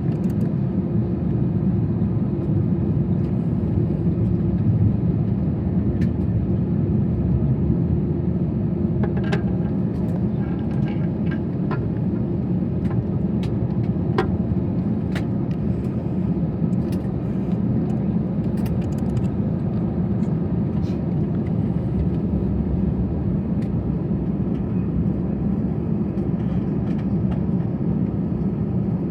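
Airbus A321 cabin noise: a steady low rumble and hum from the engines at low thrust while the airliner taxis, with a few faint clicks and rattles about ten to fifteen seconds in.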